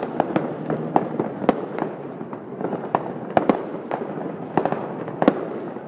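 Fireworks going off: sharp bangs in quick, irregular succession, several a second, over a continuous noise of more distant bursts.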